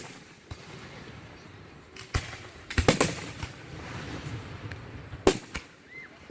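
Aerial fireworks going off: a bang about two seconds in, a quick cluster of reports about a second later, and another single bang near the end, each followed by a rolling rumble.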